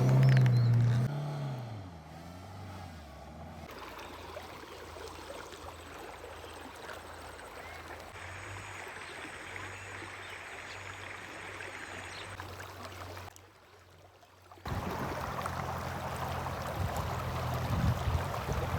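An engine running, its low note loud at first, rising and falling, then fading within the first two seconds. A steady low hum and wind-like noise continue, broken by a brief near-silent gap about two-thirds through before returning louder.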